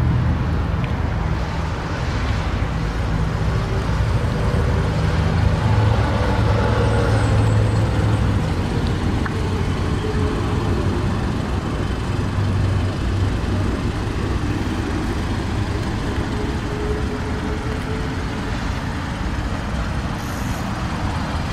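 Car engine idling with a steady low hum, mixed with road traffic noise.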